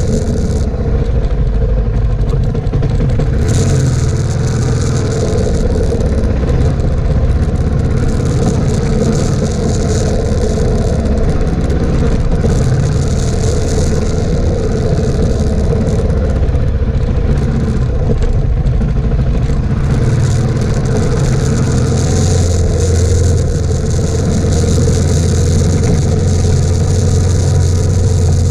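Suzuki DR650's single-cylinder four-stroke engine running steadily as the bike is ridden along a sandy dirt track, with a steady high hiss of wind and tyre noise over the engine note.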